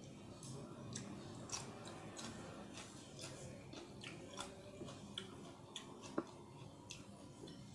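A person chewing ayam geprek (smashed fried chicken) with sambal, close to the microphone. Wet mouth smacks and clicks come irregularly, with one sharper click about six seconds in.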